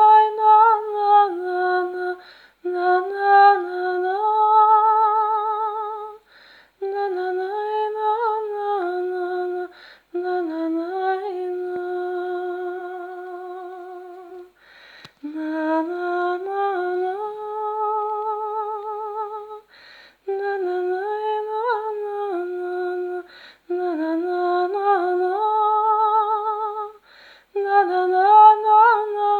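A high voice humming a slow tune in phrases of a few seconds, with short breaks between them and a waver on the longer held notes.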